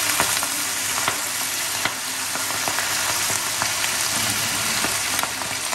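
Fresh spinach leaves sizzling steadily in hot clarified butter and garlic in a stainless steel frying pan, with a few faint clicks and spits.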